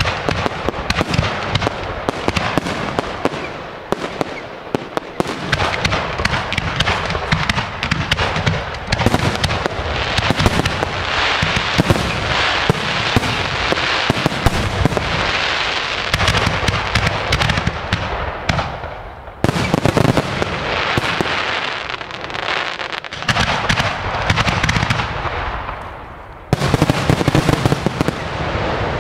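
Professional aerial firework shells launching and bursting in a dense, unbroken run of bangs and crackle. Two louder barrages start about two-thirds of the way in and again near the end.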